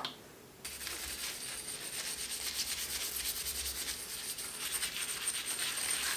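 A short click, then from about half a second in a continuous dense rubbing, scraping sound.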